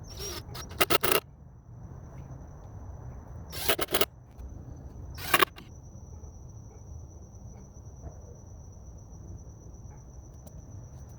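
Three short bursts of scraping, most likely the wooden corners of a subwoofer box being roughed up: the first about a second long near the start, the second about half a second long a little past three and a half seconds in, the third brief a little past five seconds in.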